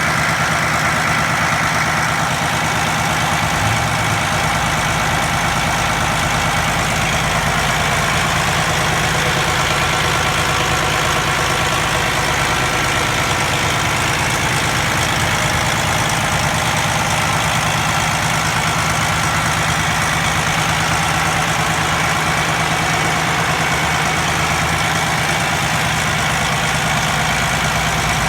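2008 Freightliner Cascadia semi truck's diesel engine idling steadily, with no revving.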